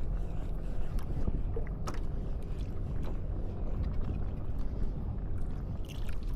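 Wind buffeting the microphone and water moving around a kayak, with a few short clicks and knocks.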